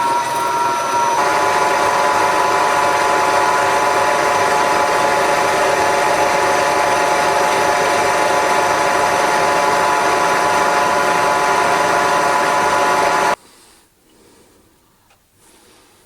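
Metalworking machine tool running under power, a steady mechanical hum and whine with several steady tones. The tones shift slightly about a second in, and the sound cuts off suddenly about 13 seconds in.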